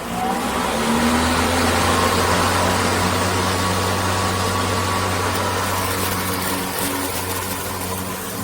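Greenworks 80V cordless electric yard tool spinning up over about a second, then running steadily: a loud rushing of air over a low motor hum.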